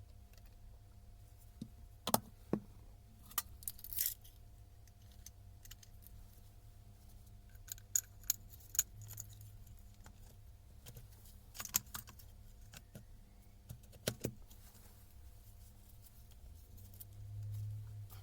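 Scattered light metallic clicks and clinks of small parts and tools being handled, in short groups a few seconds apart, with a low hum swelling briefly near the end.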